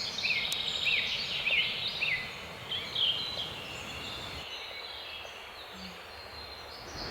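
A bird singing a run of short, evenly repeated chirps, about two a second, over the steady rush of a river below. The chirps stop about three seconds in, leaving only the faint rush.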